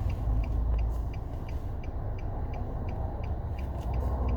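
A car's indicator flasher ticking evenly, about three clicks a second, over the low rumble of the car moving slowly, heard inside the cabin.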